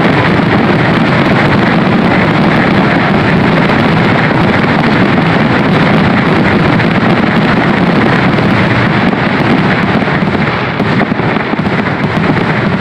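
Fireworks finale barrage: aerial shells bursting so close together that they run into one loud, continuous rumble, easing slightly near the end.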